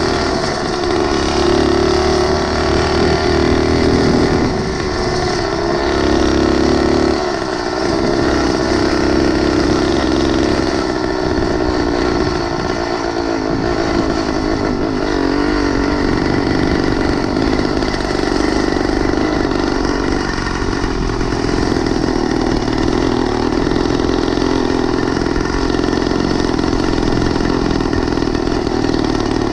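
Small engine of a motorized 20-inch bicycle running steadily as it is ridden, its low note shifting about seven seconds in.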